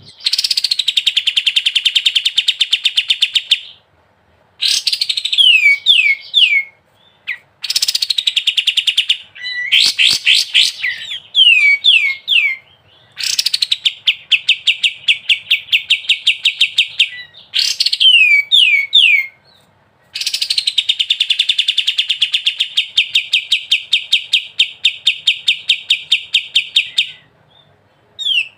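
Kapas tembak songbird singing in 'ngebren' style: long, fast-repeated trills of a few seconds each, alternating with quick runs of three or four falling whistled notes, separated by short pauses.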